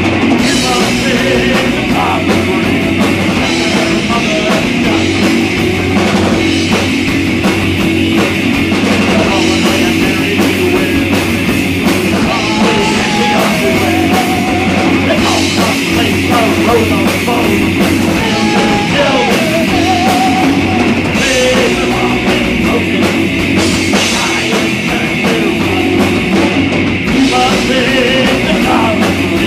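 Loud rock band playing live: heavy distorted electric guitars over a driving drum kit, with a wavering lead line on top, steady throughout.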